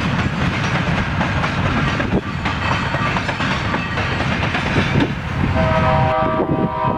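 Train passing on the rails with a steady rumble of wheels and cars. About five and a half seconds in, a locomotive air horn sounds a chord of several notes together and is held.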